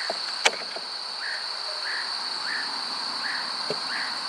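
Outdoor insect chorus: a steady high trill with a short chirp repeating about every three-quarters of a second. A single sharp click about half a second in.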